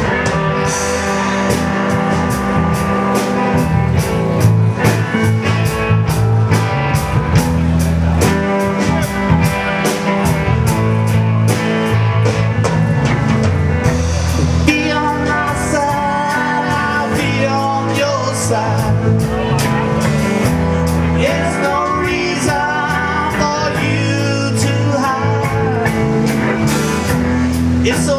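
Live rockabilly blues band playing: electric guitar and bass over a drum kit keeping a steady beat, with a wavering melodic lead line, likely a singing voice, coming in about halfway through.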